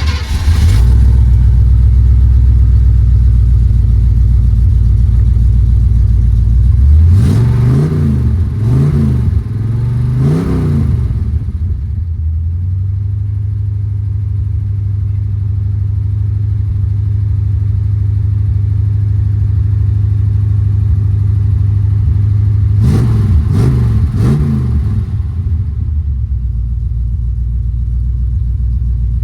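Small-block Chevy V8 just started, heard from inside the cab, running at a fast idle, then revved three times about a quarter of the way in and twice or three times more about three quarters through. Between and after the revs it settles to a steady idle of about 900 rpm.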